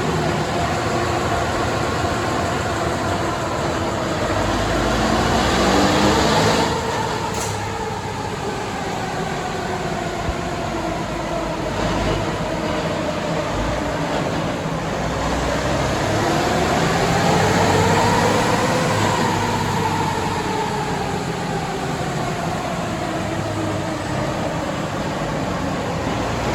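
Rebuilt Caterpillar C15 diesel in a Kenworth W900 running hard under load on a chassis dynamometer. Its revs climb to about six seconds in and then drop off suddenly. They rise again past the middle and fall back near the end.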